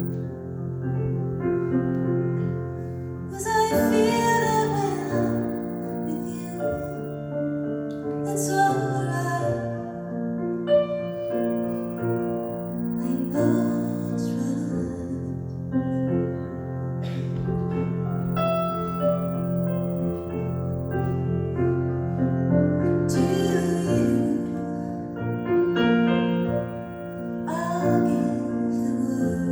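Piano ballad played with sustained chords, with a woman singing over it.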